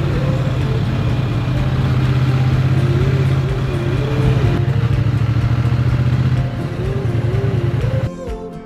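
Triumph Bonneville T100's parallel-twin engine running steadily, with a melody playing over it. The engine sound cuts off suddenly about eight seconds in, leaving only the music.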